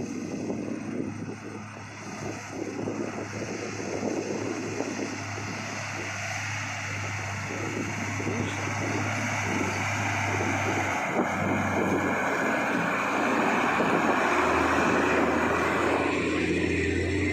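Heavy truck's diesel engine running with a steady low drone, growing louder over the second half.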